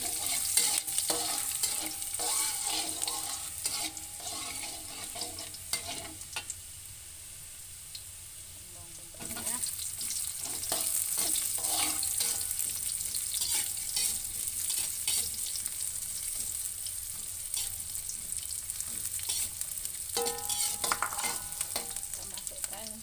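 Sliced garlic sizzling in hot oil in an aluminium wok, stirred and scraped with a metal spatula. The sizzling drops back for a few seconds near the middle, then picks up again.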